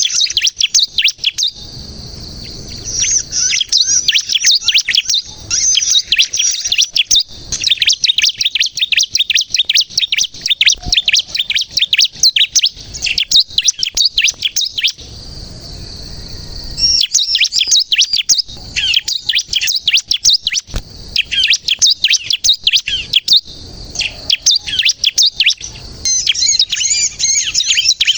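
Bar-winged prinia (ciblek kristal) singing energetically, in long runs of rapid, sharp, high chirping notes with short pauses between phrases, a song used as a lure to draw in and prompt other ciblek to sing.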